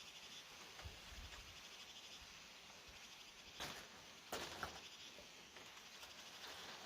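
Faint steady chirring of insects, with a few short, sharp knocks a little past the middle.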